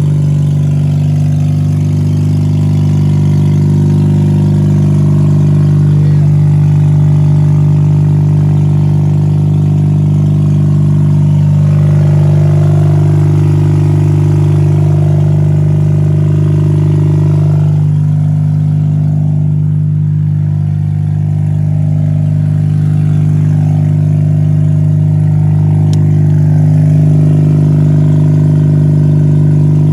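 Mazda RX-8's twin-rotor Renesis rotary engine running steadily at idle, on its first run after being newly installed.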